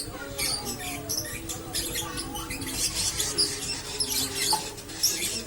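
Lovebird's long unbroken chattering song (ngekek panjang): a rapid, dense stream of high-pitched chirps with no pauses, the continuous 'konslet' style of song. Fainter lower sliding tones run beneath it.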